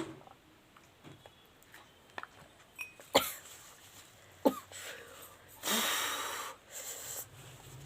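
A person reacting to the heat of a chili shot: two sharp gasps or coughs a little over a second apart, then a long, noisy, wheezing breath out near the end.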